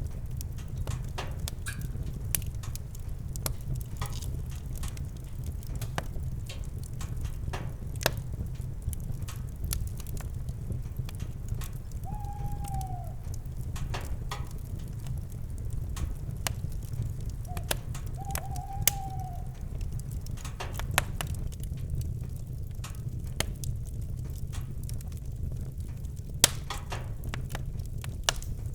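Campfire burning with irregular sharp crackles and pops over a steady low rumble. An owl hoots twice, short and mid-pitched, roughly five seconds apart, around the middle.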